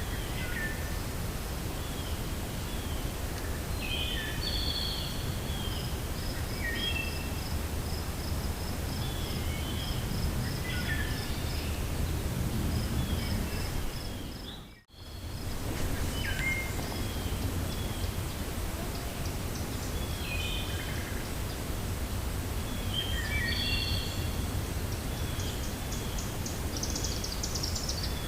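Wind blowing steadily through a forest with birds chirping on and off, and a rapid series of high ticking notes for a few seconds early on. The sound dips out briefly about halfway through.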